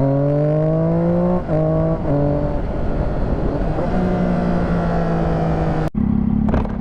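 Triumph Daytona 675's inline three-cylinder engine accelerating hard with quick clutchless upshifts: the note climbs, drops briefly at each shift, and climbs again. Twice the pitch drops sharply, about a second and a half in and again at two seconds, before the engine settles into a steady note, which cuts off abruptly near the end.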